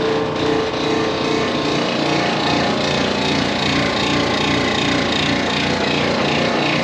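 Electrolux clothes dryer running with its drum turning, making a loud, steady, thunderous rumbling noise. The noise comes from worn drum support rollers.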